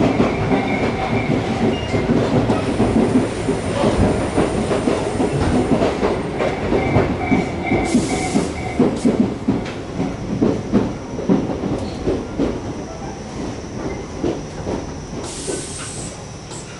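Interior running sound of a Tobu 8000-series electric train car slowing for a station: wheels rumble and clack over rail joints, gradually getting quieter. Short bursts of air-brake hiss come about halfway through and again near the end.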